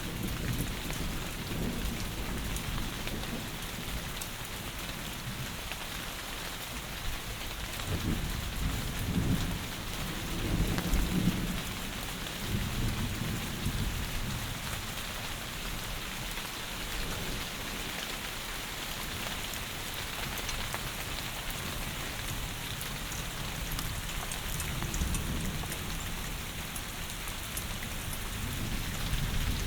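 Heavy rain falling steadily, a dense even hiss of rain on surfaces. Low rumbles swell under it about eight to thirteen seconds in and again near the end.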